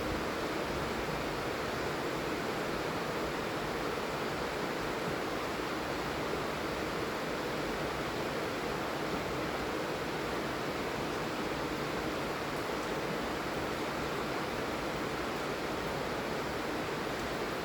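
Steady heavy rain falling, an even hiss with no distinct drops or pauses.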